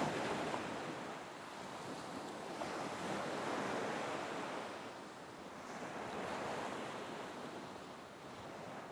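Ocean waves washing on a shore, a soft hiss that swells and recedes in slow surges, cresting twice.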